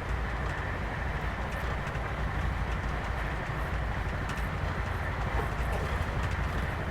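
Steady low rumble of a passenger train, with faint clicks on top.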